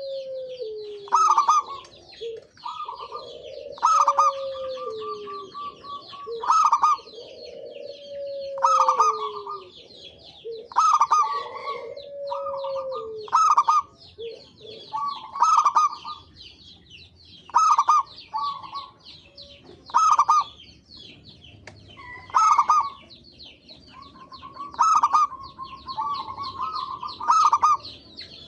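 Zebra doves (perkutut) cooing: short phrases of quick repeated notes come again every two to three seconds, some with a lower note sliding downward. High twittering chirps run underneath.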